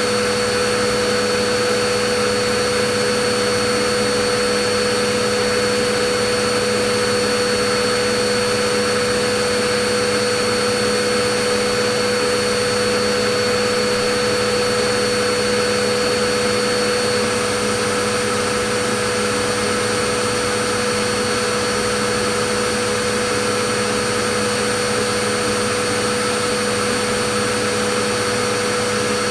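Vacuum cleaner running continuously: a steady rush of air with a constant motor whine, easing very slightly in level a little past halfway.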